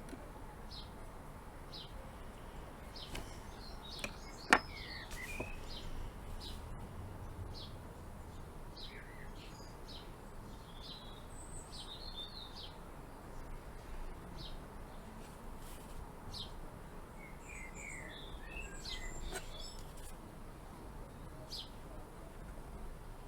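Small birds chirping and twittering on and off over a low background hum, with one sharp click about four and a half seconds in.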